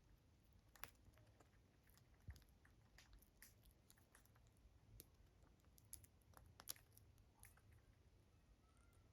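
A pet parrot nibbling at food: faint, irregular small clicks and crunches.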